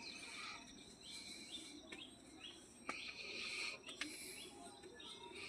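Small birds chirping faintly: many short, quick chirps, a few each second.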